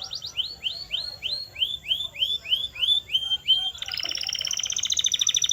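Canary singing: a phrase of repeated upswept whistled notes, about three a second, then a switch to a fast rolling trill near the end.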